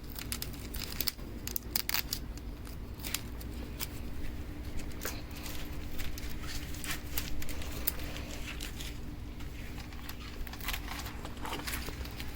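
Wind rumbling on the microphone, with scattered crinkles and clicks as a thin plastic hydro dip film is handled and laid onto water.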